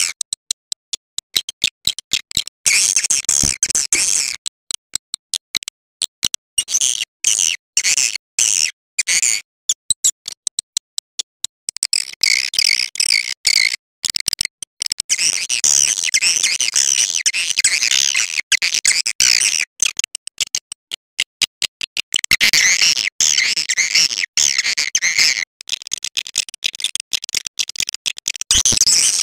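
Swiftlet call recording: stretches of dense, high twittering chirps from many swiftlets, broken by rapid runs of sharp clicks in between. This is a lure call, played to draw swiftlets into a nesting house.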